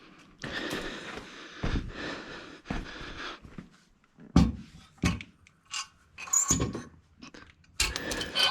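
Metal turbo parts being worked loose and handled: a scrape of about three seconds, then a series of clunks and knocks, the loudest about four seconds in.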